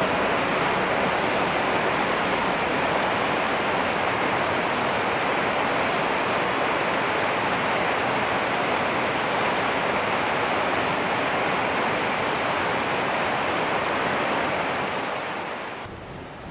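Steady rushing rolling noise of a passing BVZ train of red passenger coaches and freight box wagons. It eases off near the end, then drops away sharply.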